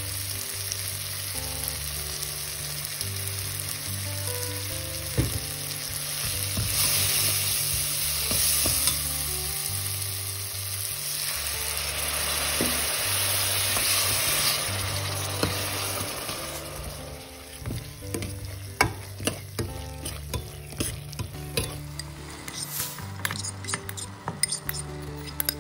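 Onion-tomato masala frying and sizzling in a steel pot while a steel ladle stirs it. The sizzle is strongest through the middle, then gives way to a run of sharp clinks and taps near the end.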